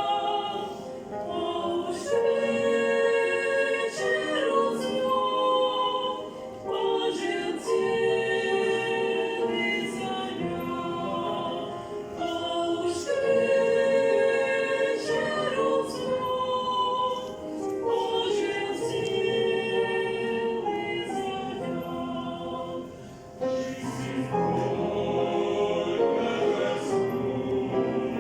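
A choir singing a Christian song, in long held phrases of a few seconds each, with a short dip about three-quarters of the way through.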